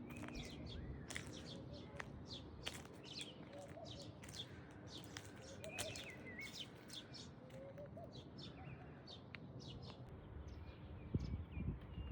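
Small birds chirping busily: many quick, overlapping short chirps with a few warbling notes. A few low thumps come near the end.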